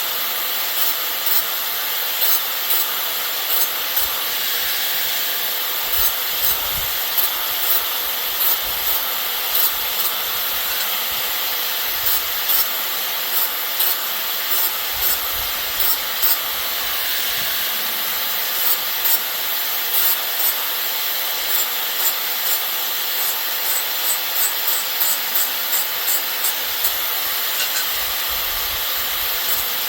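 Wood being worked by hand in rhythmic rasping strokes, about one a second, quickening to about two a second near the end.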